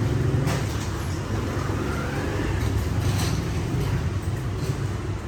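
Steady low rumble of city road traffic and motorbike engines, with a faint rising whine about two seconds in.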